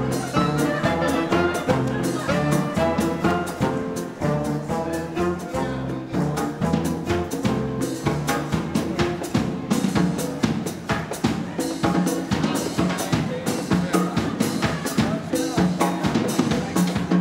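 Latin dance band playing an instrumental conga, sustained instrumental notes over a steady, prominent drum beat.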